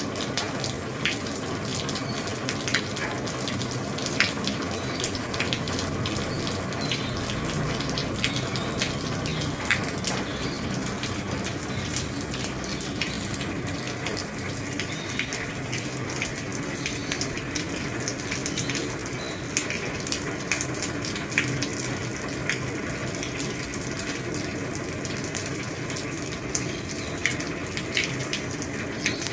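Heavy rain falling on an old roof: a steady hiss of rain with many sharp taps of single drops scattered through it.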